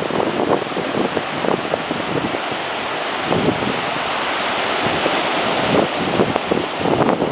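Ocean surf washing on a beach, with wind buffeting the microphone in quick, irregular gusts.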